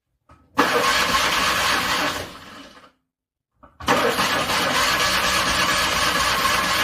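Car engine cranked on a cold start in freezing weather, in two attempts: a short burst of cranking that fades out after about two seconds, then, after a second of silence, a longer crank that starts suddenly and carries on.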